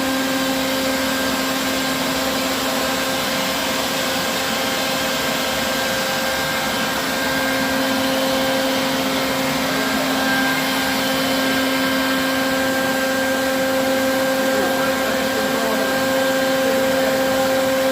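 A vacuum motor running steadily with a constant, unchanging hum.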